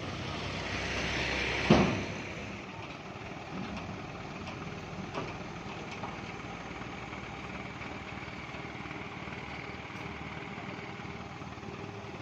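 Road traffic: a vehicle approaches and passes close by, with a single sharp bang about two seconds in. Steady traffic noise follows, with a few faint knocks.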